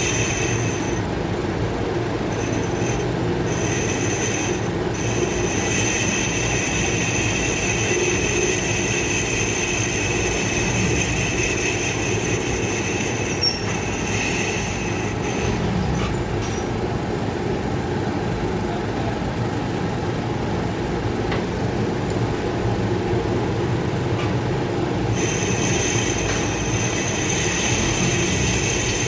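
Metal lathe running steadily while a cutting tool turns a motorcycle brake hub, with a high metallic squeal that drops out for several seconds in the middle and then returns.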